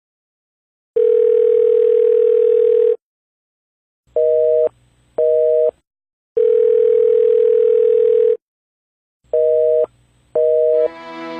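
Telephone signal tones: a steady beep of about two seconds, then two short two-note beeps, the whole pattern played twice. Music comes in near the end.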